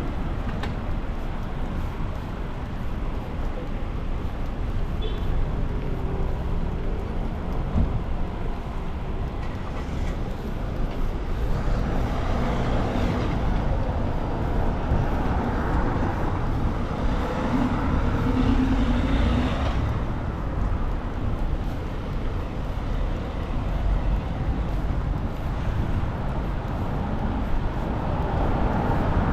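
Road traffic: cars and buses passing on a city street over a steady low rumble, with vehicles swelling louder past the middle.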